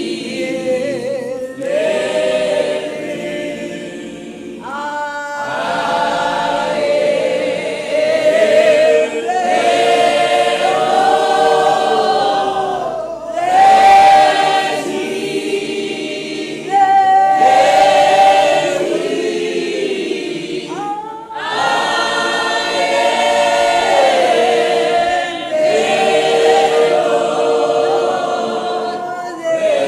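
A group of voices singing a slow gospel song in harmony, with long held notes in phrases broken by short pauses.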